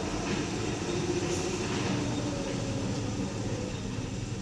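Heavy tow truck's engine running steadily under load as it pulls on the sling cable, a continuous low drone. A lone tow truck proved not strong enough for this pull.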